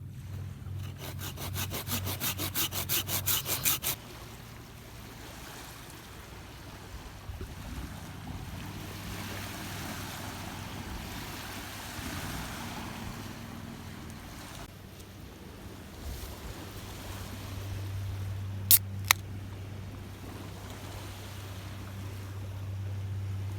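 Rough lake waves washing on the shore, with a steady low rumble of wind. Near the start comes a quick run of rasping strokes, about four a second, that grows louder over about three seconds. Two sharp clicks come close together near the end.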